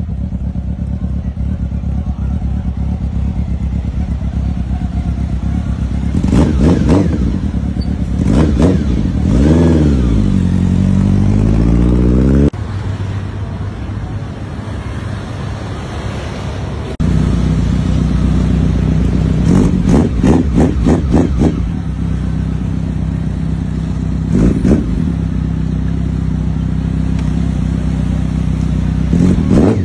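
Honda CB750 motorcycle engine idling and being revved: a series of short throttle blips, each rising and falling in pitch, with one longer rev about ten seconds in. The engine note jumps abruptly twice, once near the middle and again a few seconds later.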